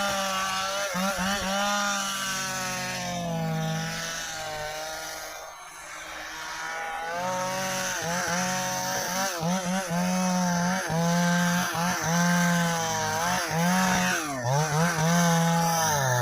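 Stihl chainsaw cutting through dry ipê hardwood, the engine pitch dipping and recovering again and again as the bar bogs in the dense wood. It eases off about five seconds in, then picks up again with more rapid dips.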